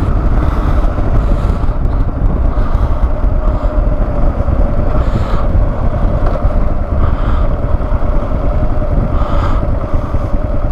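Kawasaki KLR650 single-cylinder motorcycle engine running at a steady cruise while riding, with wind rumbling on the microphone. A faint steady whine joins it a few seconds in.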